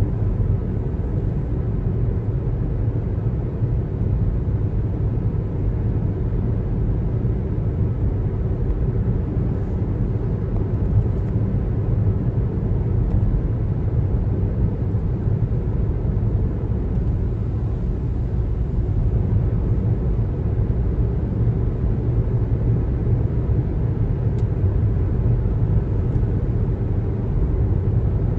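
Steady road noise of a car being driven: an even, low rumble of tyres and engine with no sudden events.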